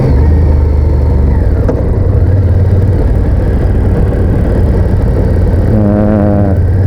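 Honda VTR1000F's 996 cc V-twin running under way, heard from the rider's position, with its engine note dropping briefly near the start and then holding steady. A short wavering pitched sound comes in about six seconds in.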